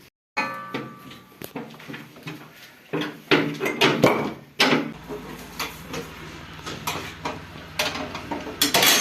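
Repeated, irregular metallic clanks and knocks of tools and parts being handled during a tractor gearbox repair, with a low steady hum underneath from about three seconds in.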